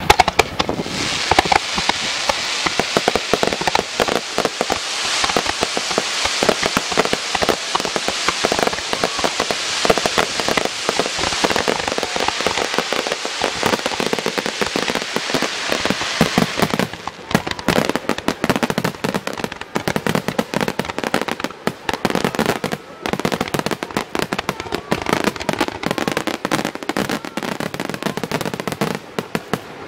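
Aerial fireworks shells at a display, bursting and crackling. It starts as a dense, continuous barrage. About seventeen seconds in it thins out into separate bursts and crackles with short gaps between them.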